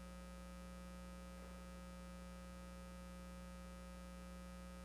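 Faint steady electrical hum, a low buzz with several fixed tones and nothing else.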